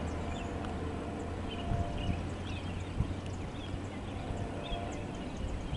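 Freight train rolling away over the rails: a steady low rumble with irregular clicks of wheels passing over rail joints.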